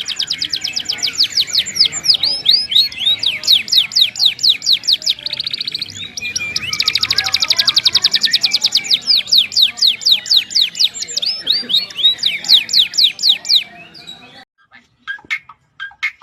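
A songbird singing long runs of rapid, high, downward-sweeping chirps, about ten a second, broken by brief buzzy trills. Near the end it gives way to a few scattered short chirps.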